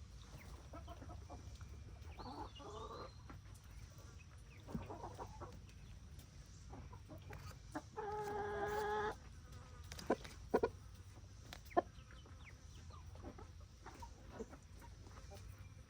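Backyard chickens clucking at intervals, with one louder drawn-out call about eight seconds in and a few sharp clicks soon after, over a low steady rumble.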